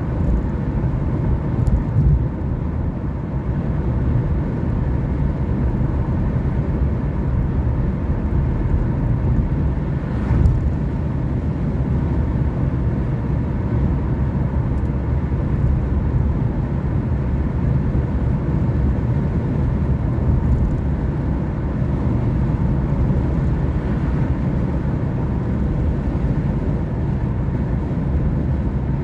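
Car driving at a steady pace: a continuous low rumble of engine and tyres on the road, with a single brief bump about ten seconds in.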